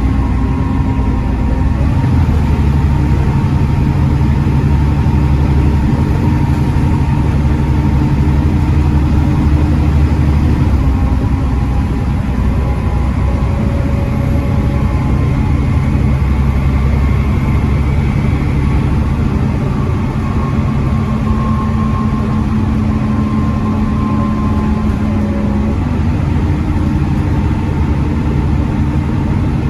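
Volvo D7C 7.3-litre six-cylinder diesel engine of a Volvo B7TL Wright Eclipse Gemini double-decker bus running steadily, its note shifting up or down in steps several times.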